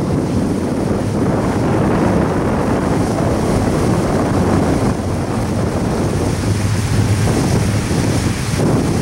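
Double-stack intermodal container train rolling past: a steady, loud rush of wheels on rail and car noise, mixed with wind buffeting the microphone.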